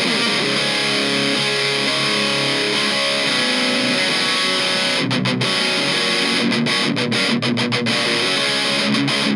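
Electric guitar (Epiphone Les Paul Special VE) through a Kokko KH8 High Gain Distortion pedal with its gain at twelve o'clock, into a Fender Blues Junior amp: a heavily distorted riff of sustained chords. In the second half it has short, sharp stops.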